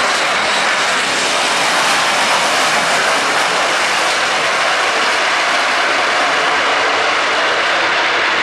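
Boeing 727 tri-jet's three Pratt & Whitney JT8D turbofans passing low, a loud, steady rush of jet noise.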